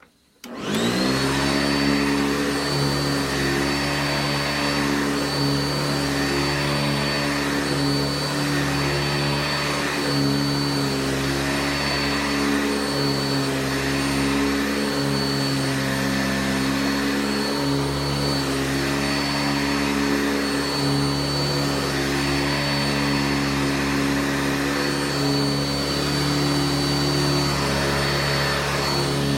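Sanitaire S635A commercial upright vacuum with a 5 amp motor switched on about half a second in, then running steadily with a high whine over the motor hum.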